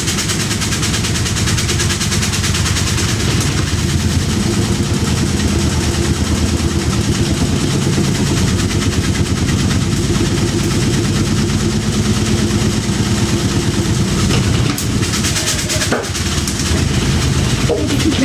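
Washing machine spinning hard, its drum shaking the cabinet in a fast, steady rattling and banging, the machine vibrating so violently that it moves about.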